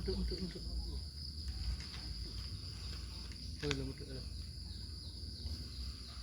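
Insects chirring in one steady, high-pitched drone, with a low rumble underneath. About three and a half seconds in there is one short, sharp sound with a pitch to it.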